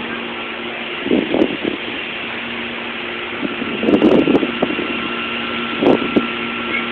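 Strong storm wind buffeting a phone microphone in several gusts over a steady hum.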